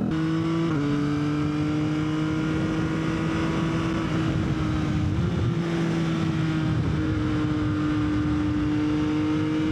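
Yamaha XSR900's inline-three engine running at a steady cruise under way, a held drone whose pitch shifts slightly a few times, over wind noise.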